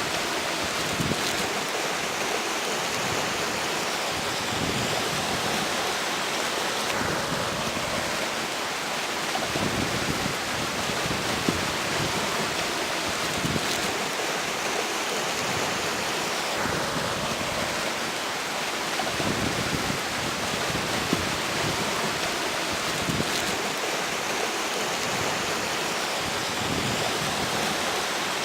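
River water rushing steadily, with strong wind gusting against the microphone in irregular low rumbles.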